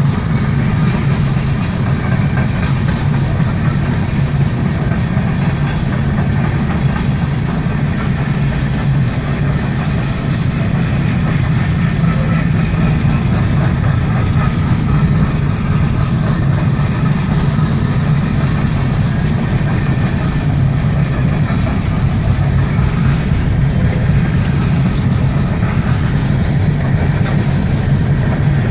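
Freight train rolling past close by, a steady, unbroken rumble of its cars on the rails.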